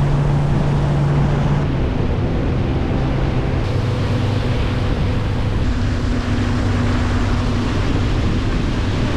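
A small boat's outboard motor running steadily under way, its pitch shifting slightly a couple of times, with wind rushing over the microphone.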